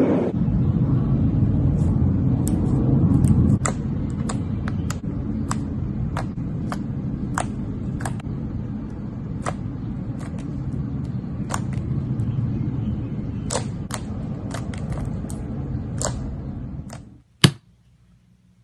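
Fingers pinching and poking a soft slime close to the microphone: a steady low squishing rumble with many sharp, irregular clicks and pops of air pockets in the slime. The sound stops about three-quarters of a second before the end, followed by one loud click.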